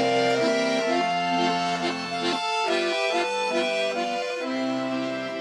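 Accordion or bayan playing the instrumental introduction to a slow folk lullaby, a melody over held bass notes.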